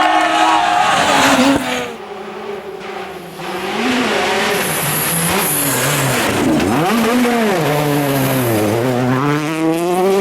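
Rally car engine at hard throttle, its note climbing and dropping repeatedly through gear changes and lifts, with tyre squeal. The sound drops away briefly about two seconds in, then the engine picks up again and revs on.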